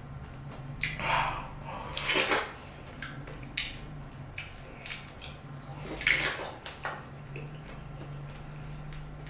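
Close-up wet chewing and mouth smacking of a person eating juicy dragon fruit, in a few short bursts, over a steady low hum.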